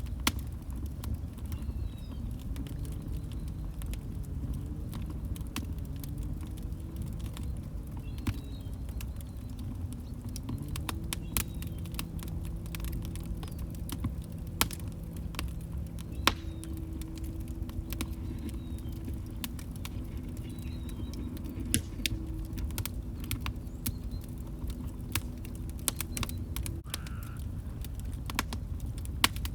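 Log fire crackling: irregular sharp pops and snaps over a low steady rumble. A faint low tone wavers through the first part, then holds steady and stops near the end.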